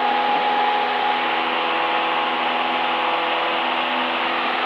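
Cessna 172's engine and propeller running steadily in flight, heard inside the cockpit as an even drone with several steady humming tones.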